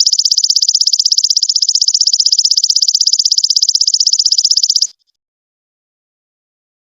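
Insect call of the 'golden locust' (belalang emas): a loud, high-pitched buzzing trill made of rapid, even pulses that stops suddenly about five seconds in and stays silent for the rest.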